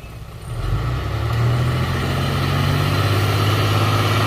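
Heavy machine's diesel engine, growing louder over the first second or so and then running steadily.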